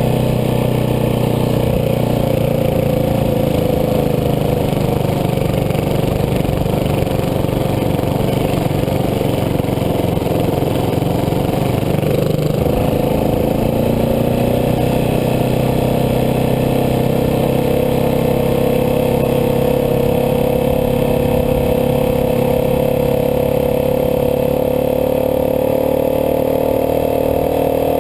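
Dirt bike engine running steadily under way. Its pitch dips about twelve seconds in, then slowly climbs.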